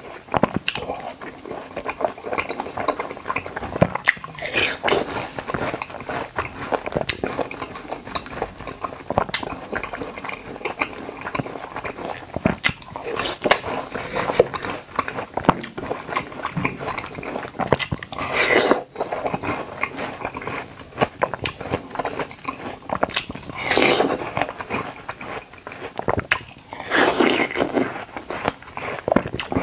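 Chewing and biting of juicy watermelon chunks and konjac jelly, close to the microphone. A dense run of crunchy, crackly mouth sounds and clicks, with a few louder stretches about 13, 18, 24 and 27 seconds in.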